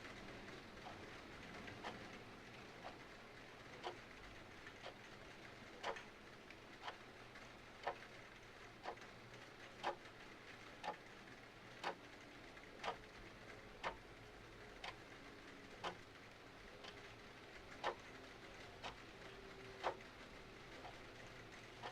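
Clock ticking steadily, about one tick a second, over a soft steady hiss of rain.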